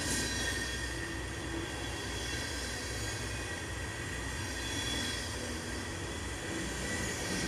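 Tank cars of a long freight train rolling past: a steady rumble of steel wheels on the rails, with faint thin high tones running over it.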